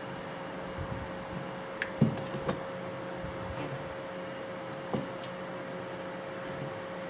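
A few light knocks and clicks of parts or tools being handled during the drill's disassembly, the loudest about two seconds in, over a steady low hum.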